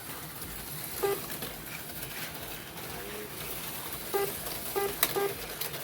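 HO slot cars running on the track, with several short electronic beeps from the lap-counting system as cars cross the line, one about a second in and a quick cluster of three near the end. A sharp click sounds near the end.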